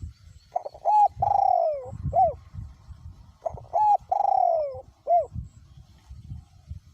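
Male spotted dove cooing two phrases, about a second apart. Each phrase is a few short coos, then a long falling coo, then a short closing note. Low wind rumble on the microphone sits underneath.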